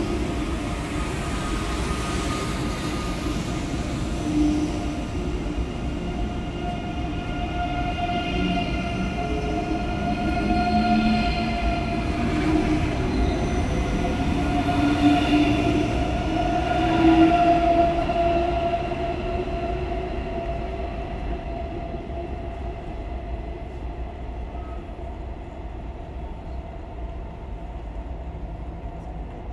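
An ICE 3 Class 403 electric multiple unit pulling out and running past. It has a steady whine of several tones from its electric traction over a low rumble of wheels on rail. The sound grows louder until about two-thirds of the way through, then fades as the last car pulls away.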